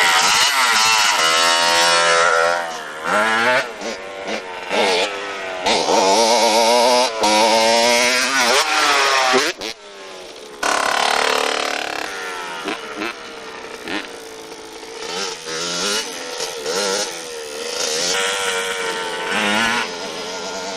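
Motorcycle engine revving, its pitch rising and falling again and again; it is loud for about the first ten seconds, then drops away and runs on more quietly.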